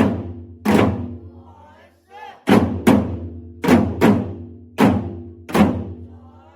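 Janggu drum strokes in a slow, uneven rhythm, about eight strikes in all, some in quick pairs, each ringing on with a deep resonant decay. A voice calls out briefly about two seconds in.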